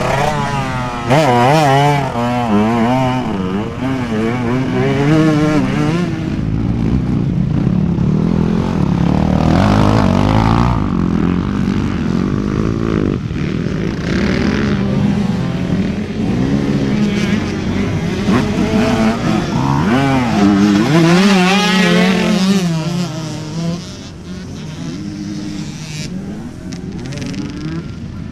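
Motorcycle engine revving up and down over and over, its pitch rising and falling every second or so. It runs somewhat quieter near the end.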